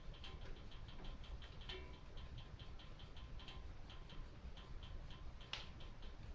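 Wood fire burning in a fireplace: a low rumble with occasional crackles, the loudest a sharp pop about five and a half seconds in. An even, fast ticking of about four ticks a second runs underneath.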